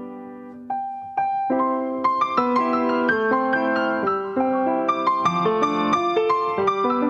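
Piano playing a slow, gentle piece: a held chord fades away, two single notes come in about a second in, then a melody over chords carries on.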